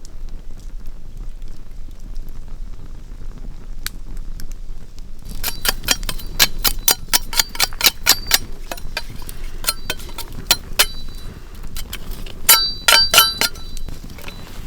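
Steady low background noise, then from about five seconds in a run of sharp ringing clinks of hard metal-like objects striking, about four a second, pausing and ending in a quick flurry.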